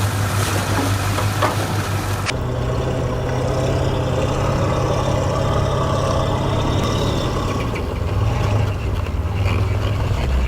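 Heavy diesel engine running steadily with a low drone. About two seconds in, the sound changes abruptly, the hissy top end falling away, and the engine drone carries on.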